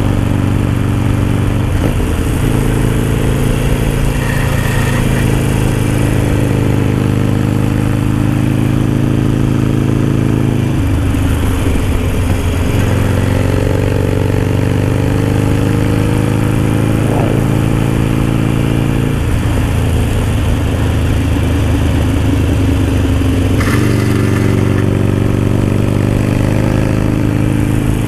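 Harley-Davidson Sportster Roadster's V-twin running on the road through a Dan Moto Highwayman 2-into-1 exhaust. The engine note climbs steadily in pitch and drops back several times.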